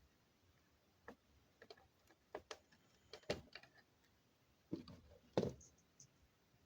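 Irregular light clicks and knocks, about a dozen over several seconds, the loudest about three and five and a half seconds in.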